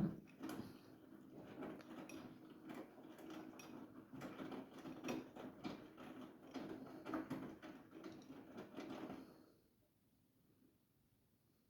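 Siemens iQ700 front-loading washing machine turning its drum during the fabric-softener rinse: a motor hum with laundry and water sloshing and clicking inside the drum. It starts with a knock and stops about nine and a half seconds in, as the drum pauses before reversing.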